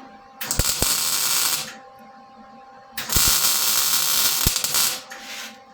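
Electric arc welder tacking steel: two bursts of crackling arc hiss, about a second and about two seconds long, with a few sharp pops, then a brief third crackle near the end.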